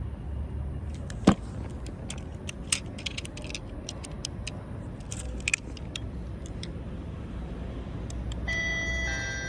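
Clicks and clacks of plastic toy trains being handled, with one loud click about a second in. About a second before the end, a toy's electronic chime starts: a steady tone of several pitches.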